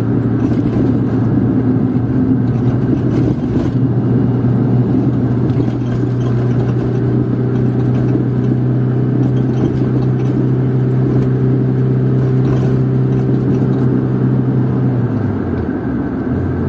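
Car engine and road noise heard from inside the cabin while driving at a steady speed, a constant engine drone that drops in pitch about fifteen seconds in.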